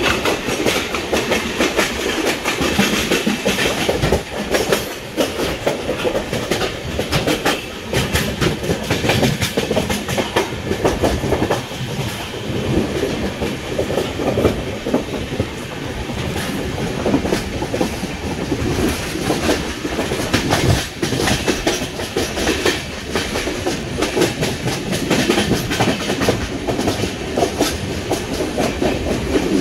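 Passenger express train running at speed, its coach wheels clattering over the rails in a steady rumble with a dense stream of irregular clicks.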